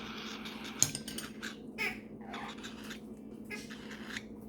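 A few short, soft, raspy calls from parrots being hand-fed, with a light click about a second in.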